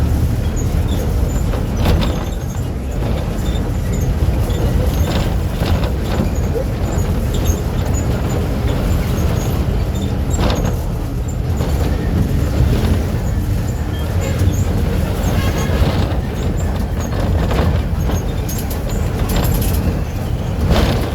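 VW 17-230 OD city bus's diesel engine running steadily under way, a continuous low rumble. Short clatters and knocks from the bus come and go throughout.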